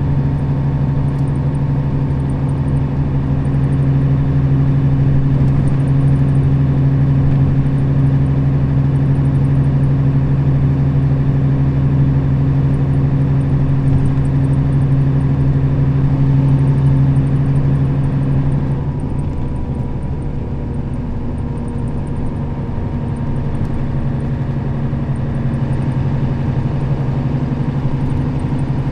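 Nissan Diesel KL-RA552RBN bus's diesel engine heard from inside the cabin, running steadily under load at speed. About two-thirds of the way through the engine note drops and quietens, as when the driver eases off the throttle or changes gear, then holds steady.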